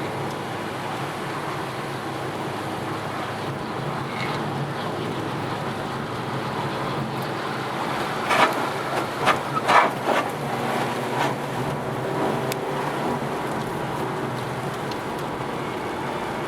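Mazda Miata's four-cylinder engine running steadily under way, with road noise, while the car is driven on a wet track. A few loud, sharp bursts of noise cut in about eight to ten seconds in.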